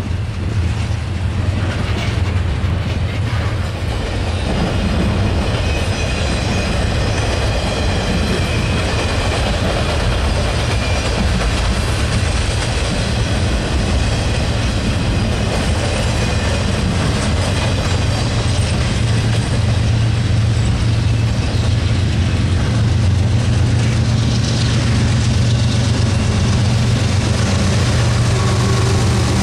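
Freight trains passing: the steady rumble and wheel clatter of a double-stack container train on the rails. Then a Canadian Pacific GE ES44AC diesel locomotive comes up, its low engine drone growing louder over the last ten seconds as it draws close.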